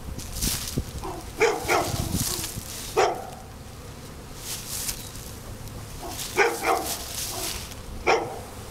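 A dog barking, a few short barks about a second in and again from about six seconds in.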